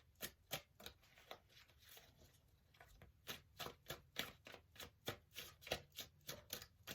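Tarot cards being shuffled by hand: a faint, uneven run of quick card flicks and snaps, thickening in the second half.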